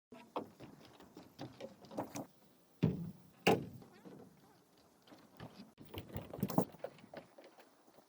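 Irregular knocks, taps and clatters of hand work, the loudest two about three and three and a half seconds in.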